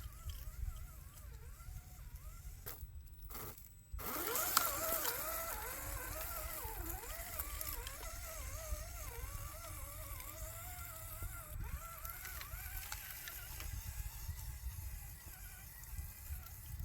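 Electric motor of an RC crawler whining, its pitch rising and falling constantly with the throttle as it works over rough ground, over a low rumble. The sound drops out briefly about three seconds in and comes back louder.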